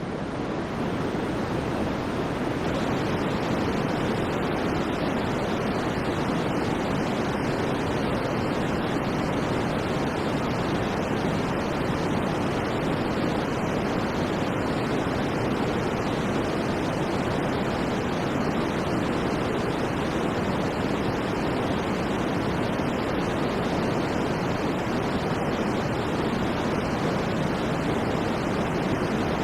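Steady white noise for sleep, an even hiss with no rhythm or events, heaviest in the low-middle range. It fades up over the first couple of seconds, then holds level.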